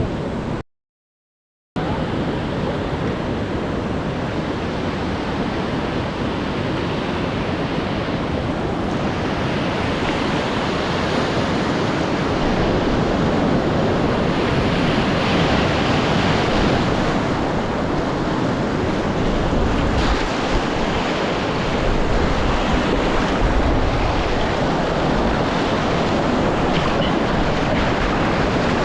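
Whitewater rapids rushing steadily, with wind buffeting the microphone. The sound cuts out completely for about a second shortly after the start, then gets a little louder in the second half.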